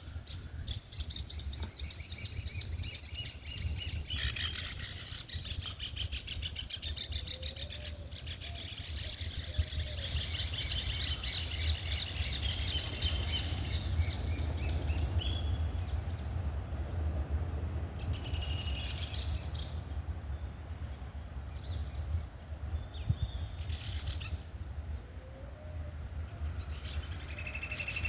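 Small birds chirping and singing together, busy for the first half and sparser later, with a dove cooing softly a couple of times. A steady low rumble runs underneath.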